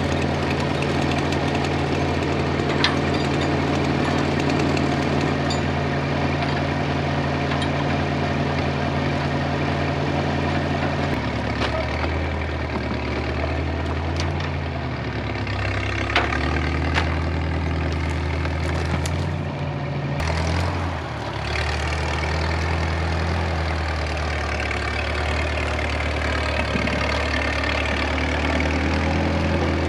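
1947 Case Model S tractor engine running steadily, its speed shifting about eleven seconds in and dipping briefly around twenty seconds, with a few faint clicks.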